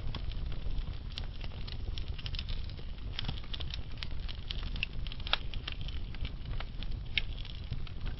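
Logs burning in a fireplace, crackling with irregular sharp pops and snaps over a low, steady rumble of the flames. A few louder snaps stand out about five and seven seconds in.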